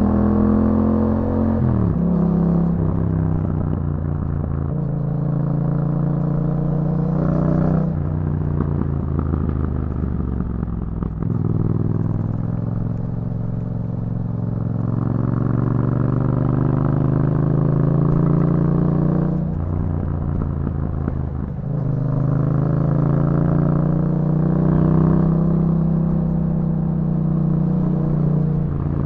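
A 2021 Yamaha MT-07's 689 cc parallel-twin engine running through an Akrapovič aftermarket exhaust while the bike is ridden. The engine note rises and falls with the throttle and is cut by several sudden shifts, around 8, 11, 19 and 22 seconds in.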